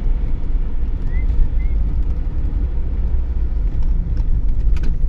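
Steady low rumble of a car driving along a road, heard from inside the car, with two faint short chirps about a second in and a few light clicks near the end.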